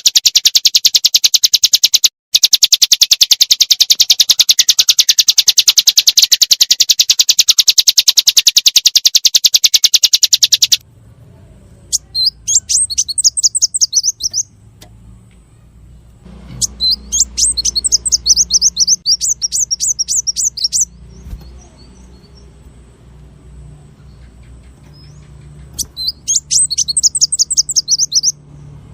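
Small songbirds singing in two spliced recordings. First comes a dense, very rapid series of high repeated notes. About eleven seconds in it cuts abruptly to three separate bursts of fast high trills, each lasting a couple of seconds to four, over a low background rumble.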